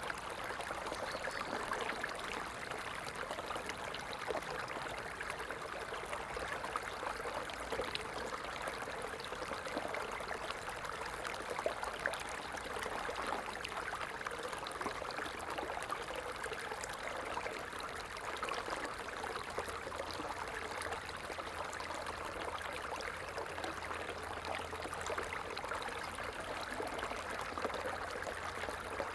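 Stream water flowing steadily, an even rush dense with small trickling splashes.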